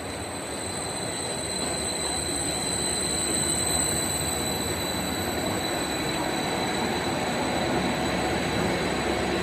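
A train running on its rails: a steady rumble and rush of running noise with a thin high steady whine over it, growing louder over the first few seconds and then holding.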